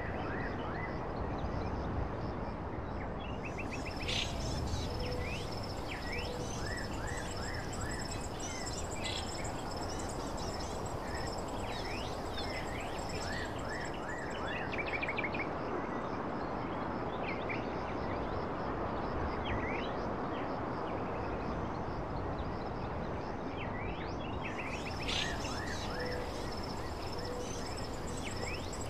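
Outdoor nature ambience: a steady rushing background with many birds chirping in short rising calls. Insects keep up a steady high-pitched trill that drops out for a while in the middle and then comes back.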